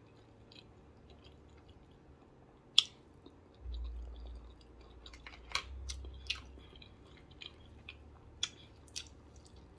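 A person chewing a mouthful of broccoli with her mouth closed, with soft wet mouth clicks. A single sharp click comes about three seconds in, and a low rumble runs for a few seconds after it.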